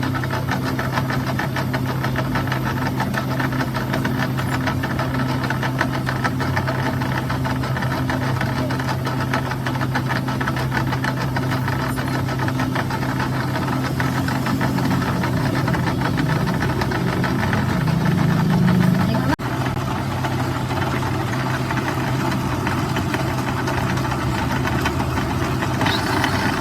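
A workshop machine running steadily with a low hum and a fast, fine rattle, briefly cutting out about nineteen seconds in.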